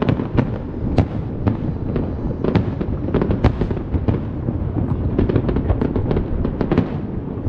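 Aerial fireworks display: a rapid, irregular string of shell bursts and bangs over a continuous low rumble, the reports coming thickest in quick succession near the end.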